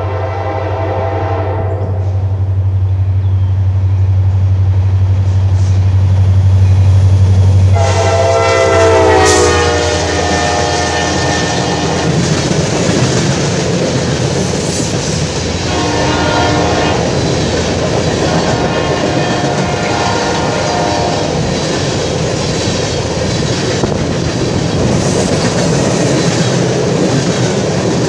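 Diesel train passing close by: the locomotive's air horn sounds as its engine grows louder, then about eight seconds in the horn sounds again and drops in pitch as the locomotive goes by. Two more horn blasts follow, then the cars roll past with wheels clacking over the rail joints.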